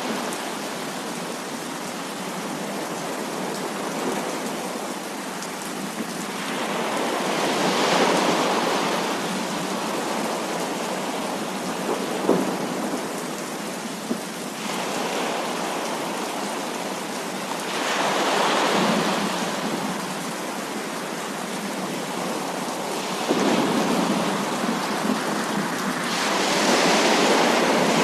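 Heavy rain falling steadily, with rolls of thunder swelling up three times: about a third of the way in, two-thirds in, and again near the end. There are two short, sharp cracks a little before the middle.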